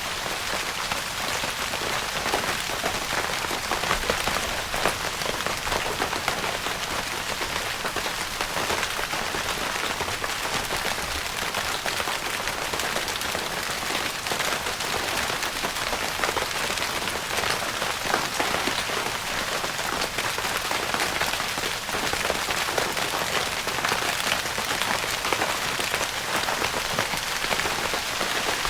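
Steady rain pattering on a tent's fabric roof, a dense, even hiss of countless small drop taps.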